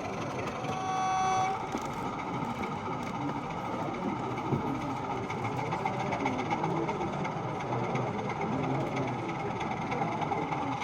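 A single high horn toot lasting about a second, near the start, over a steady background hubbub.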